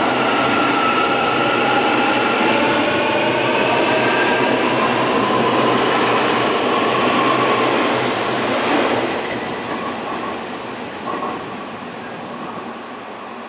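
A Taiwan Railways train running past, a steady rumble with several high squealing tones that drift slightly in pitch; the sound fades away after about eight seconds.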